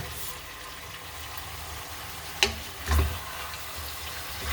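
Chicken thighs sizzling in hot oil in a pan, a steady frying hiss. A sharp click about two and a half seconds in and a knock half a second later, as of a utensil against the pan.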